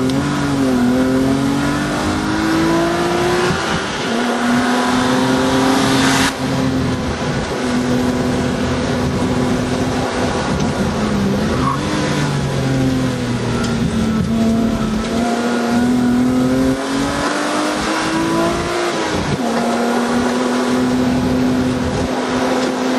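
Hill-climb car's engine heard from onboard, pulling hard at high revs. Twice the pitch climbs and then drops suddenly at a gear change, and about halfway through it dips briefly and picks up again.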